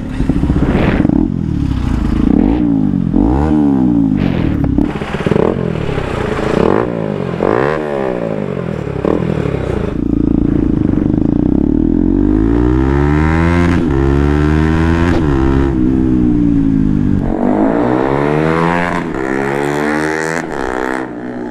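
Bajaj Pulsar NS200 single-cylinder engine revving through a full-system Akrapovic exhaust with the dB killer removed, very loud. It starts with a run of quick throttle blips, then gives longer revs held higher before dropping back.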